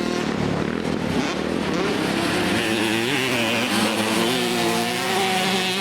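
Several motocross bikes running together, their engines revving up and down as they ride the track.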